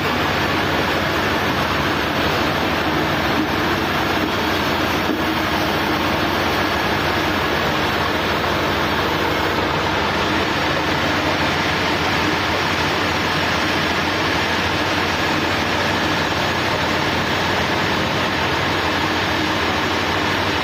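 Sawmill machinery running steadily: an engine's continuous drone under a broad, even noise.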